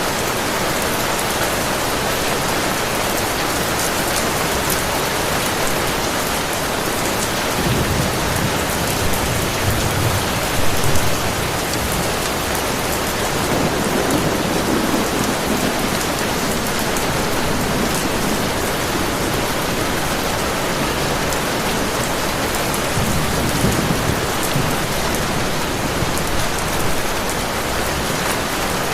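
Heavy rain falling steadily, an even hiss, with a few low rumbles of distant thunder that swell and fade, the strongest about ten seconds in.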